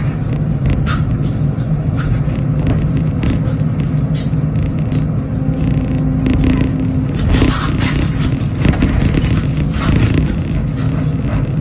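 Hydraulic excavator's diesel engine running steadily under load, with irregular knocks and scrapes of broken concrete throughout, busiest a little past the middle.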